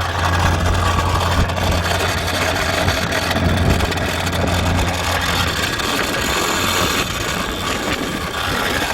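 A steady engine-like hum with a low drone, running evenly and then dropping away about six seconds in.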